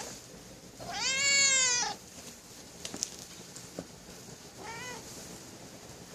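Cat meowing: one long, loud meow about a second in, then a shorter, fainter meow near the end.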